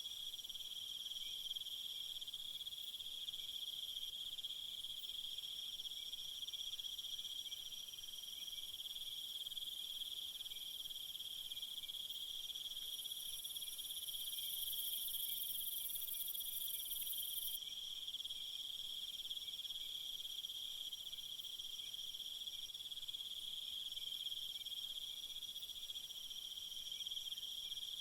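Steady, unbroken chorus of crickets chirring, with a higher-pitched insect trill swelling in for about five seconds around the middle.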